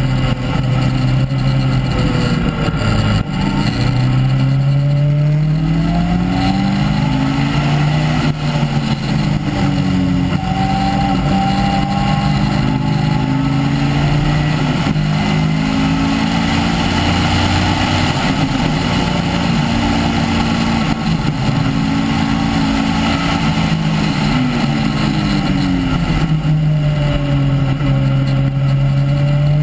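Caterham R300's un-silenced four-cylinder engine heard from the cockpit at full revs on track, climbing hard through the gears and dropping sharply under braking and downshifts, about 3 seconds in and again near the end, before climbing again.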